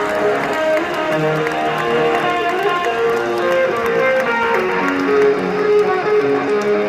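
Live electric guitar playing a slow melodic line of distinct single notes over lower sustained notes, from a metal band performing in an arena.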